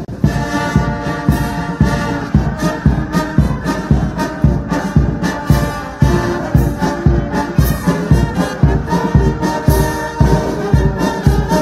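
Brass band playing, with horns over a steady beat of about two strokes a second.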